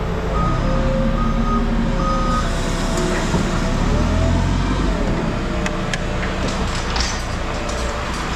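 Heavy vehicle's diesel engine running while its reversing alarm beeps during the first couple of seconds. After the beeping a rushing mechanical noise follows, with a few sharp metal clanks.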